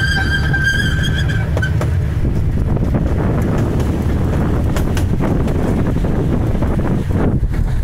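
Steady low rumble of a small park train's open passenger car rolling along, with wind buffeting the microphone. A steady high tone stops about a second and a half in.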